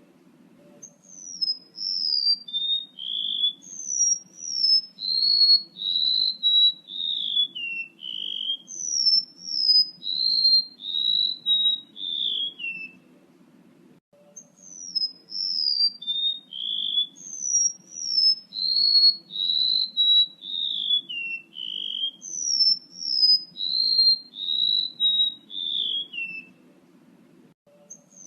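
Recorded song of a male rementuk laut played as a lure call: a run of quick, downward-sliding whistled notes, stepping down in pitch through the phrase. The phrase breaks off about halfway through and starts over.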